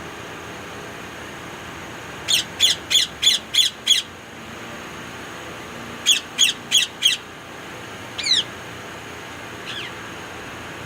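Indian ringneck parakeet giving short, high-pitched screeches, each falling in pitch, in quick runs: six in a row about 2 seconds in, four more around 6 seconds, then a single call and a couple of fainter ones near the end.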